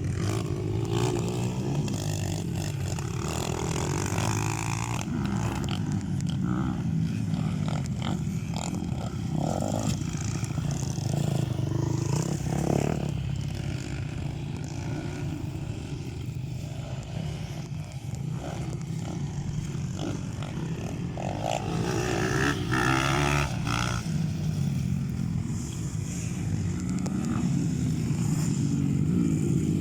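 Motocross dirt bikes riding on a dirt track, engines running continuously and revving up and down as riders work the throttle.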